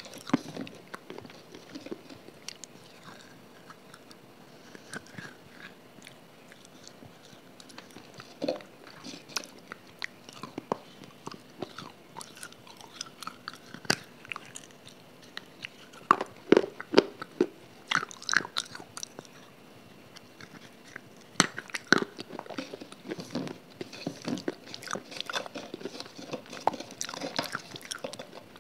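Close-miked biting, crunching and chewing of a dry, crumbly blue block, with irregular sharp crackles as pieces break up in the mouth, busiest in the second half.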